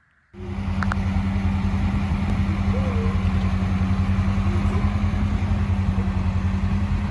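A vehicle engine running steadily, with an even low pulsing throb and a steady hum; it cuts in abruptly about a third of a second in.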